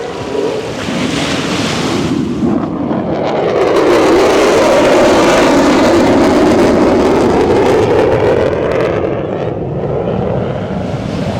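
A motor passing by: it grows louder over a few seconds, holds near the middle, then fades.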